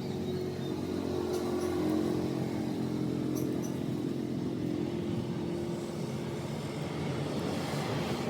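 Diesel truck engine running steadily at idle.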